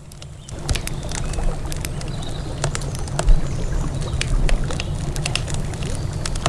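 Wood campfire crackling, with frequent sharp pops and snaps, over a steady low rumble that comes in about half a second in.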